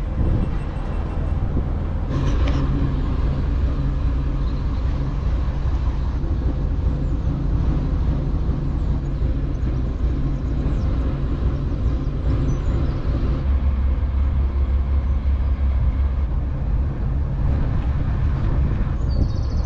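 Dutch barge's inboard diesel engine running steadily under way, a low, even hum. About two-thirds of the way through, the deepest part of the hum grows stronger.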